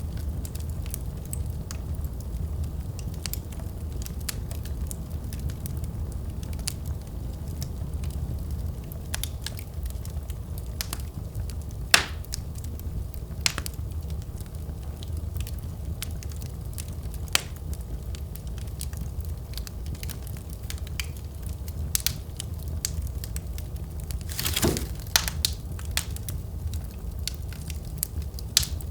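Wood fire crackling in a fireplace: a steady low rumble of flames with scattered sharp pops, the loudest about twelve seconds in and a cluster of them a little past halfway.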